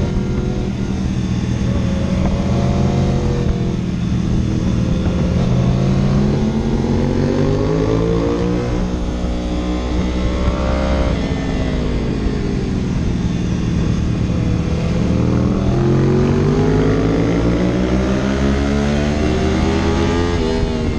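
Vehicle engine running hard and revving, its pitch climbing, falling away, then climbing again, over a steady low drone.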